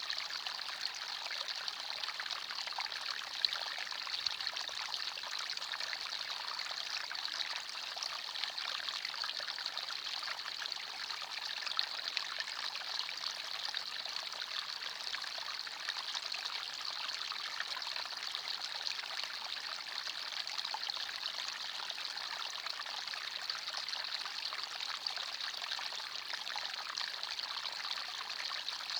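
Small forest stream running and trickling over stones, a steady babble of water without a break.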